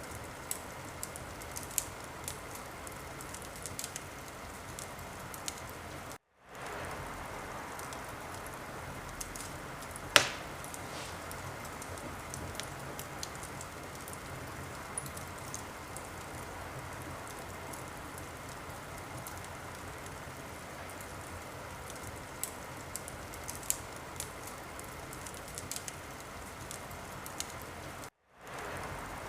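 Wood fire in a fireplace crackling, with a steady hiss under frequent small crackles and one loud pop about ten seconds in. The sound cuts out to silence for a moment twice, about six seconds in and near the end.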